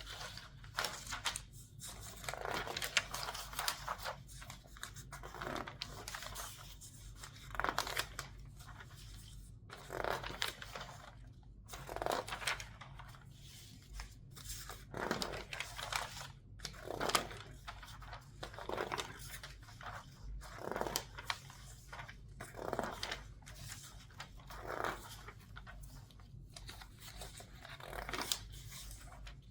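Newspaper pages being turned in quick succession and squeezed, a crinkling rustle of paper coming in short bursts about every one to two seconds.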